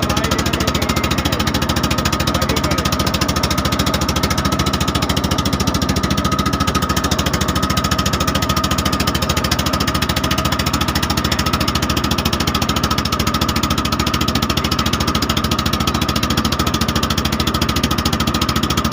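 Motorboat engine running steadily at close range, with a rapid, even knocking beat.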